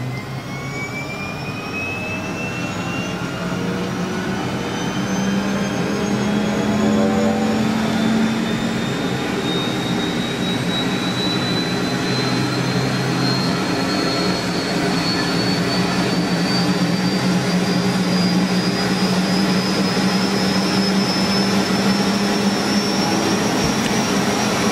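Helicopter turbine engine starting up: a whine rises steadily in pitch throughout, over a low steady hum, and the sound grows louder over the first several seconds as the engine spools up.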